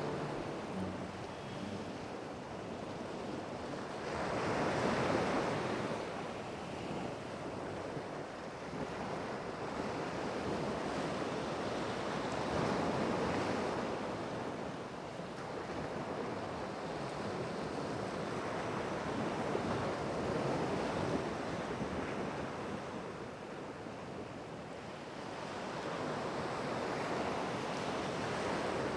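Ocean surf: waves breaking and washing ashore, the rush swelling and fading roughly every seven or eight seconds.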